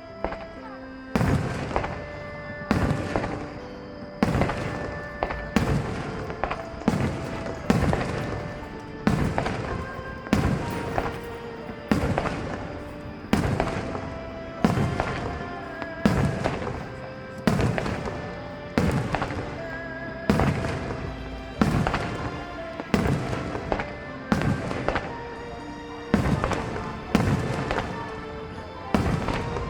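Aerial firework shells bursting about once a second, each a sharp bang with a fading tail, starting about a second in. Music with held notes plays underneath.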